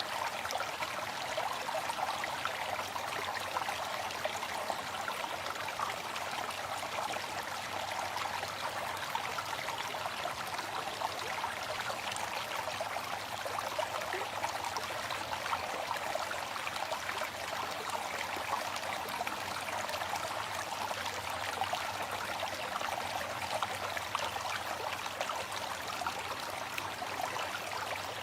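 Waterfall: a steady, even rush of falling water splashing, unchanging throughout.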